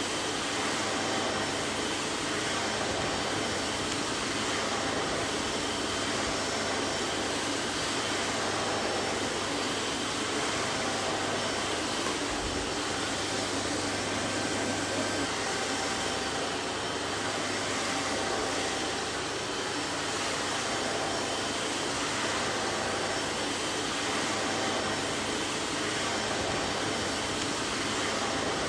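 Vacuum cleaner running steadily: a constant, even rush of motor and airflow noise with a faint steady whine and no change in speed.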